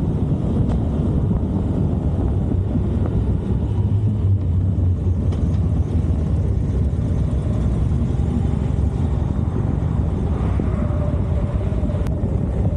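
Harley-Davidson Electra Glide's V-twin engine running steadily as the motorcycle is ridden along the road.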